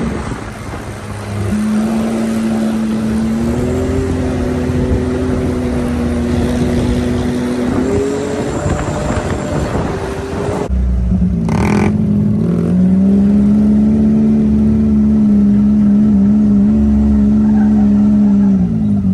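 Small pit bike engines running at a steady road speed, with the engine pitch stepping up about a second and a half in and again around eight seconds. After a break about ten and a half seconds in, an engine holds a steady note and then falls away near the end as it slows.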